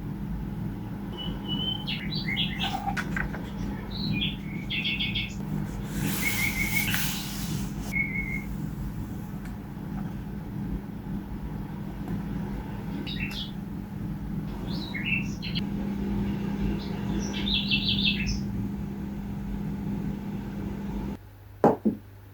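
Small birds chirping and twittering in short repeated bursts over a steady low hum and rumble, with a brief rush of noise about six seconds in. Near the end the outdoor sound cuts off abruptly and a couple of sharp clicks follow.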